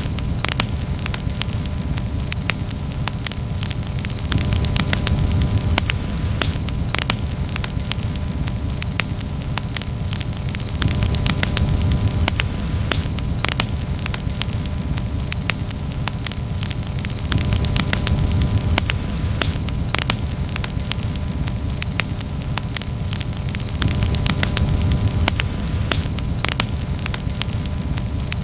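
Campfire crackling, with many irregular sharp pops and snaps over a steady low rush.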